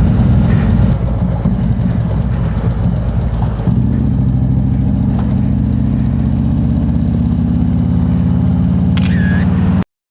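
Harley-Davidson Road King Special's V-twin engine running steadily under way. Its note steps up a little about four seconds in, and the sound cuts off abruptly near the end.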